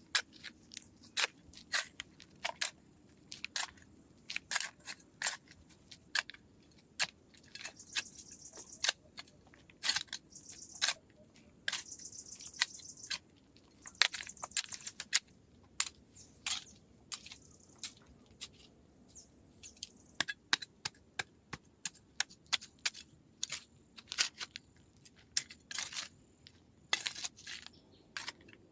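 Irregular sharp knocks and clicks, many in quick succession, with a few short scraping hisses in the middle.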